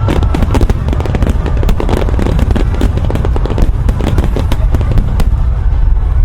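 Fireworks finale barrage: a dense, continuous stream of rapid sharp cracks and bangs, many a second, over a steady low rumble.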